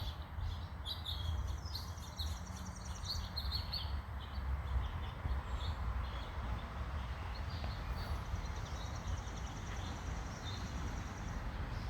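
Backyard songbirds chirping in short scattered calls, with a fast high trill that runs for a couple of seconds near the start and again for about three seconds in the second half, over a steady low outdoor rumble.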